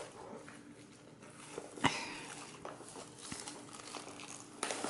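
Faint rustling and light clicks of a DVD box set's packaging being handled, with one sharper click about two seconds in.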